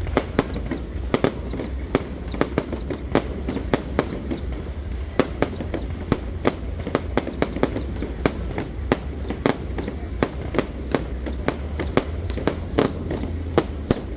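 Fireworks display: a steady run of sharp cracks and bangs from bursting shells, two to four a second, over a continuous low rumble.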